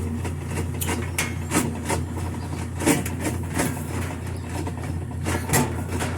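Old Whirlpool washing machine running its wash cycle: a steady low motor hum with irregular clicks and knocks every half second or so. The pressure switch has been tripped by blowing into its hose, and the machine is running normally at this stage.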